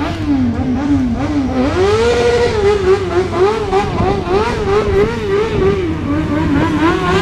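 Motorcycle engine revved hard and repeatedly, its pitch swinging up and down two or three times a second, with a longer climb about two seconds in. Another engine holds a steady low note near the end.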